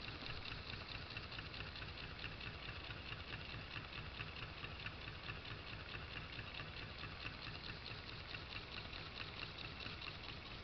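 Small water-cooled Stirling engine running steadily at slow speed, a faint, even, rapid light ticking and pattering from its moving parts.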